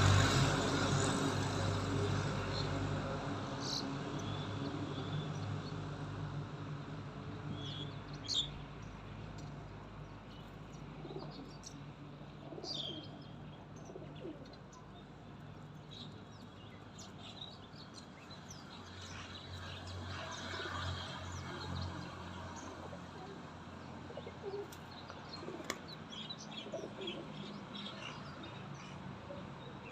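Birds feeding on the ground, giving short scattered chirps throughout. A low steady hum fades away over the first several seconds.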